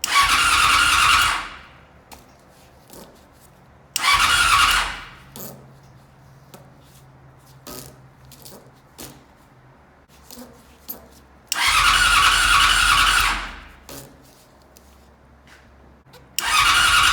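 Yamaha FZ6 inline-four being cranked by its electric starter in bursts of about a second and a half to two seconds: three full tries and a fourth beginning near the end, with faint clicks between them. The engine turns over but never fires, which the owner takes for dead spark plugs or else a fuel pump left crusty by old gas.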